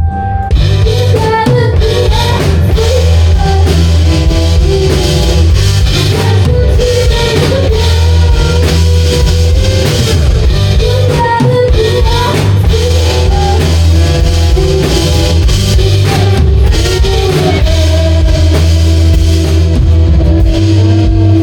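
Rock band playing live, with the drum kit hitting steadily under guitar and heavy bass; over the last few seconds the guitar holds long notes.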